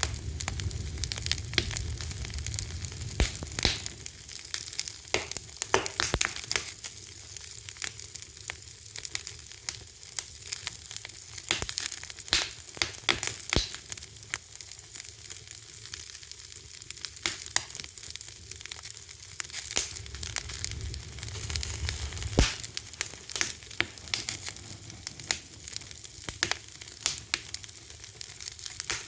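Fire crackling: frequent sharp pops and snaps, irregular and often several a second, over a steady hiss.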